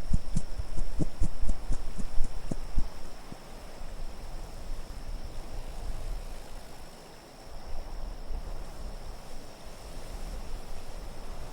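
Low wind ambience rising and falling, with a quick run of about ten sharp knocks in the first three seconds.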